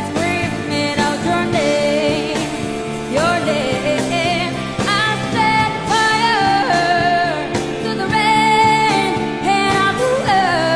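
A female singer's voice singing a pop ballad melody with vibrato over a band accompaniment.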